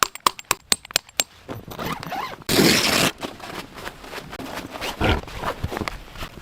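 A run of sharp clicks, then about two and a half seconds in a zipper pulled in one quick stroke, the loudest sound here, likely a tent or sleeping-bag zip. Soft rustling follows.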